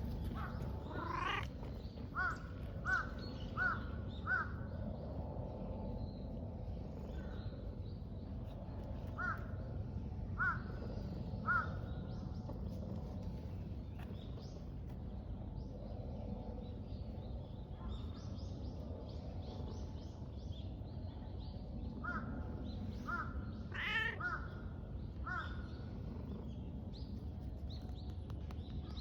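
Crows cawing in runs of three or four evenly spaced calls, three times over, over a steady low outdoor background.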